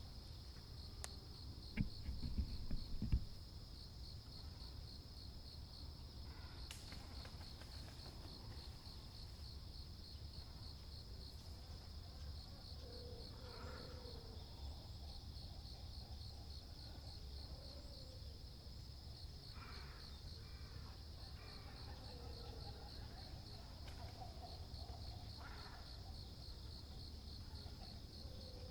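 A continuous high, rapidly pulsing insect trill, like a cricket's, with faint distant waterbird calls now and then. A brief low thump comes about two seconds in.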